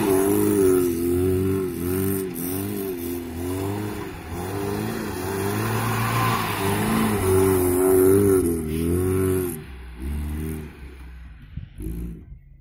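VAZ-2121 Niva's four-cylinder petrol engine revving up and down again and again as the 4x4 is driven hard in loose sand. It gets quieter about ten seconds in as the car moves away.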